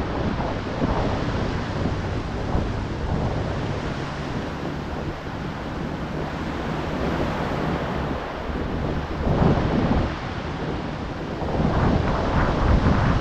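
Ocean surf: waves breaking and washing in a steady roar, with louder crashes about nine seconds in and again near the end. Wind buffets the microphone, adding a low rumble.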